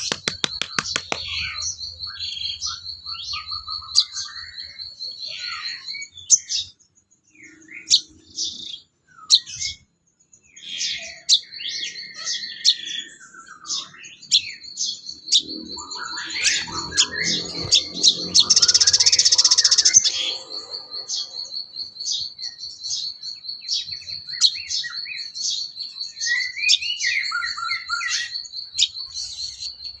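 Sogon birdsong: a fast, even high trill that runs on and off, overlaid with many short chirps and varied calls, with a harsh burst of notes about two thirds of the way through.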